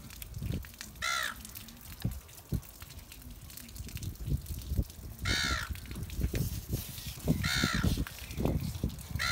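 A bird giving harsh cawing calls, each a short note that rises and falls in pitch, four times a few seconds apart, with short low knocks in between.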